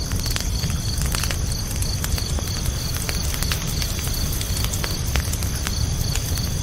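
Campfire burning with a low rumble and irregular sharp crackles and pops, while crickets chirp steadily in an even rhythm of about three chirps a second.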